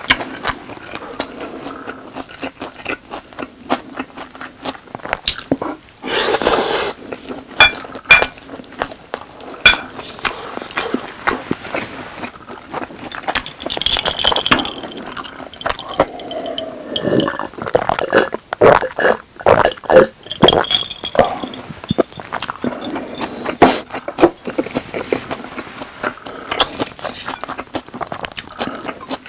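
Close-miked eating sounds of boneless chicken and rice: a spoon or chopsticks scraping and clicking against the dish, and chewing, in many quick irregular strokes.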